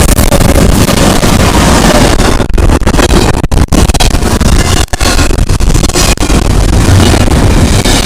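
Double-stack container freight train passing close by with a heavy, steady rumble. The recording is overloaded and distorted, with a few brief dropouts.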